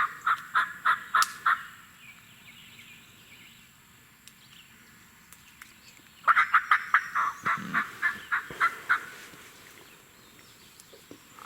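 Turkey yelping in two runs of quick, evenly spaced notes. The first run ends about a second and a half in; the second starts about six seconds in and lasts about three seconds.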